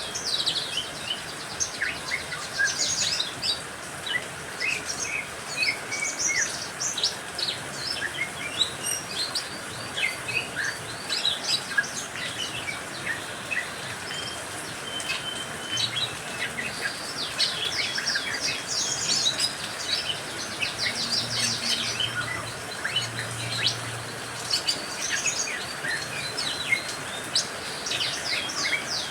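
A mix of caged songbirds (canaries, lovebirds, a greater green leafbird and a sogon) chirping and singing in quick, overlapping high calls and trills, over a steady hiss of rain.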